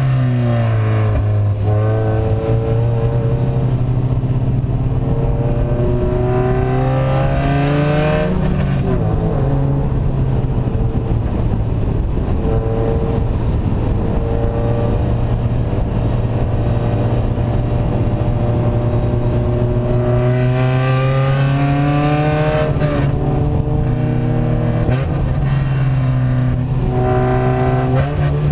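Vehicle engine with an open, unsilenced exhaust running loudly under way. Its revs climb in steps twice, dropping back in between.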